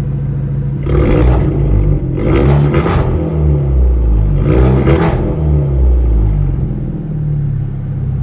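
The turbocharged 2.0-litre four-cylinder engine of a 2013 Hyundai Genesis Coupe 2.0T, warm and idling, is revved with several throttle blips from about a second in, then settles back to idle near the end.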